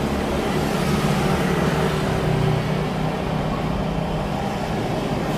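Airbus A350-900's Rolls-Royce Trent XWB jet engines at takeoff thrust, a loud, steady rumble with a low hum.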